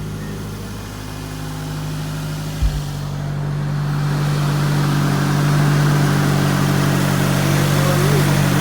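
Wrecked Nissan car's engine running steadily after being cranked, with a single thump about two and a half seconds in; it grows louder from about three seconds in.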